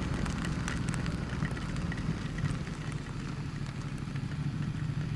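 Ducati XDiavel's 1262 cc L-twin engine running steadily at low revs, with scattered rain ticks.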